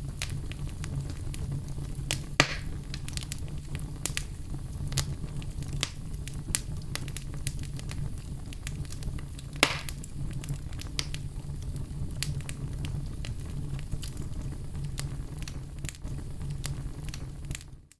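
Wood fire burning in a fireplace: a steady low rumble of flames with frequent small crackles and two louder pops, one about two seconds in and one about ten seconds in. The sound drops out briefly at the very end.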